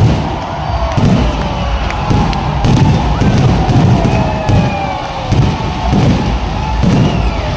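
Stadium fireworks going off: a run of low booms, one every half second to a second, over the steady noise of the crowd.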